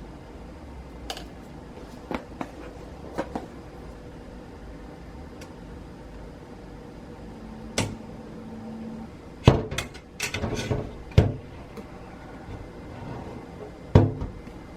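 Kitchen handling sounds: scattered knocks and clunks of items and containers being handled and set down, or a cupboard or fridge door shutting. A cluster of louder thuds comes about ten seconds in, and another near the end.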